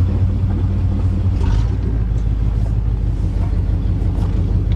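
1988 Chevrolet pickup truck on the move: a steady low rumble of engine and road noise heard inside the cab, with a couple of faint knocks.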